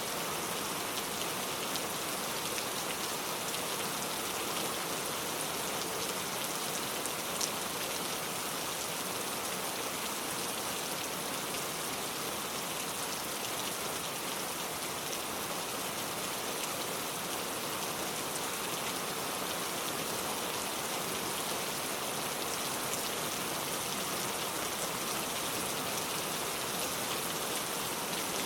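Steady rain falling on a surface, a dense, even patter of drops with a few brighter individual drop ticks.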